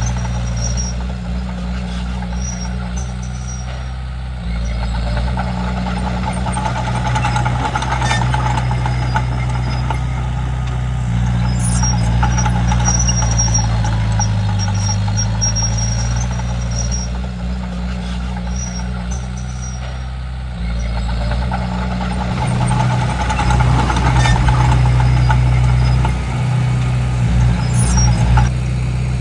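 Komatsu D31P bulldozer's diesel engine running under load as the dozer works. Its loudness and pitch step up and down several times, with a few sharp clanks and a faint high whine at times.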